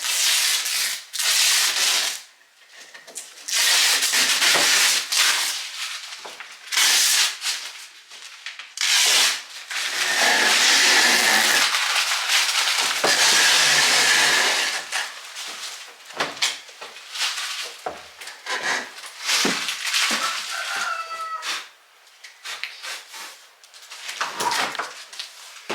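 Painter's tape being peeled off a door's surface, a run of loud ripping and tearing strokes. One long continuous peel comes about ten seconds in and lasts several seconds.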